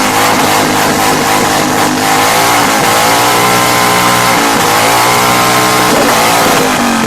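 Motorcycle engine revving hard and held at high revs, its pitch dipping briefly and picking up again a couple of times.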